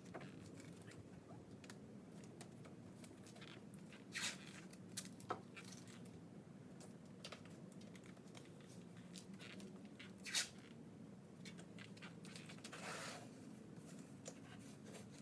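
Painter's tape being pulled off the roll and torn in a few brief rips, over a faint steady low hum.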